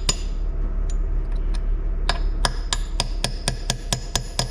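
Hammer tapping a pin punch against a broken bolt in a transmission valve body, trying to drive it out: one strike near the start, then from about two seconds in a steady run of ringing metal taps, about four a second.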